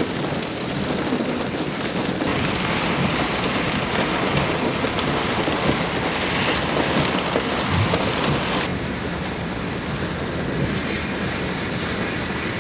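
Heavy thunderstorm downpour pelting down as a dense, steady hiss. The hiss grows sharper about two seconds in and duller about nine seconds in.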